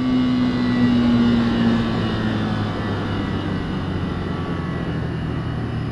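Motorcycle engine running at a steady speed under wind rush, its note easing slightly lower over the first two or three seconds.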